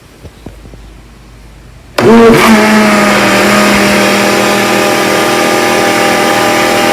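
Electric blender switched on about two seconds in, its motor spinning up and then running steadily at high speed, blending a mashed saba banana, sugar, oil and milk mixture. A few faint clicks come before it starts.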